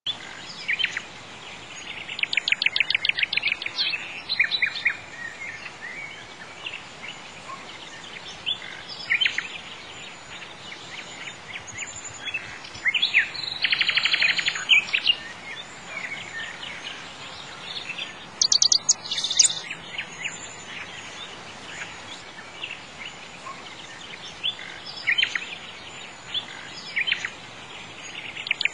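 Birds chirping in bursts of fast, rapidly repeated trills every few seconds, the longest about halfway through, over a steady background hiss.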